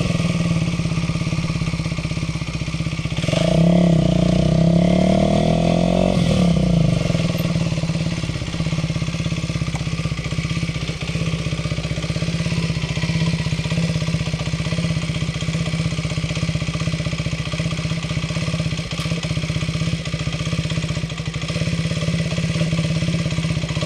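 Aprilia RS4 125's single-cylinder four-stroke engine, heard through the action camera's built-in microphone: revs drop at the start, rise about three seconds in and hold for a few seconds, then settle into a long steady idle with an even firing beat.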